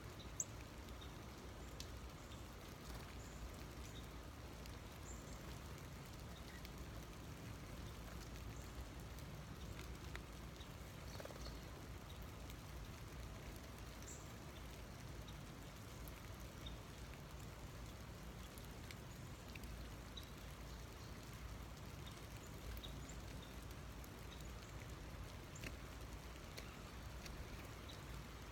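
Faint, steady patter of wintry precipitation, with many small scattered ticks.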